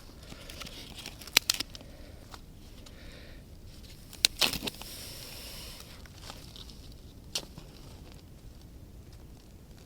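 A few sharp snaps of dry wood, loudest in pairs about a second and a half in and about four and a half seconds in, with one more near seven seconds. Between them is a soft rustle of dry leaves or kindling being handled.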